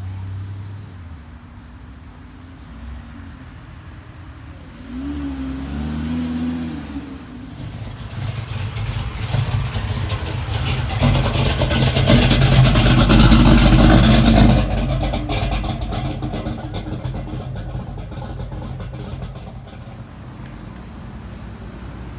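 A car engine revved hard: a couple of short rising blips, then held at high revs with a harsh, loud roar that peaks in the middle and eases off over the last several seconds.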